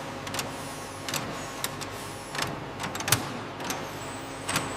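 Factory machinery running with a steady hum, with irregular sharp clicks and taps about once or twice a second.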